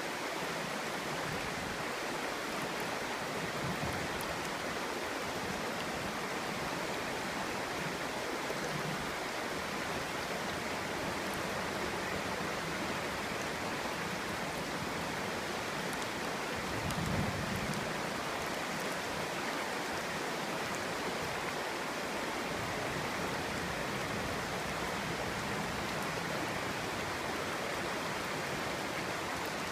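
Clear stream babbling over rocks, a steady rush of flowing water with a brief deeper swell about two thirds of the way through.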